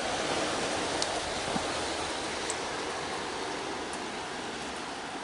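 Steady rain falling, an even hiss, with a few faint ticks.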